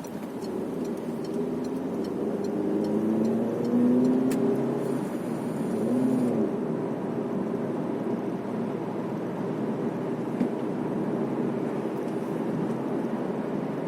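Steady road and engine noise inside a moving car's cabin, with the engine pitch shifting during the first few seconds. A turn signal ticks about twice a second near the start, then stops.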